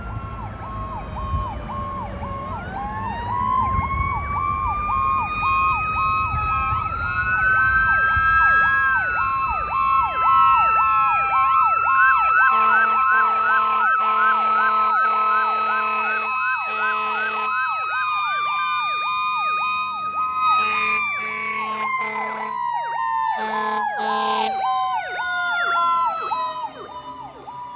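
Ambulance and fire engine responding with sirens running. A rapidly pulsing electronic siren sounds throughout, joined by a siren that winds up to a steady wail and slowly winds down over the last several seconds. Repeated air horn blasts sound between about twelve and twenty-four seconds in, and an engine rumbles in the first few seconds.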